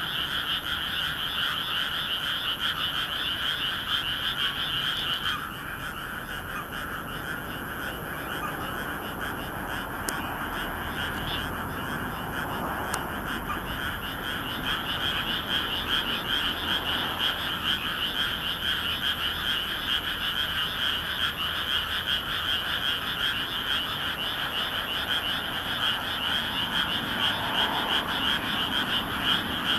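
A dense chorus of frogs calling together in a rice paddy, many overlapping rapid croaks at once. The higher-pitched calls stop about five seconds in and come back about ten seconds later, while the lower calls carry on throughout.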